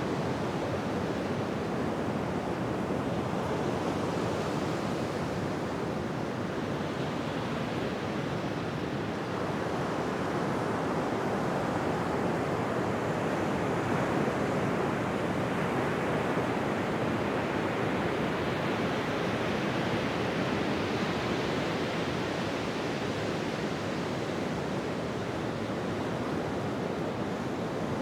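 Ocean surf washing onto a beach: a continuous wash of breaking waves that slowly swells and eases over several seconds at a time.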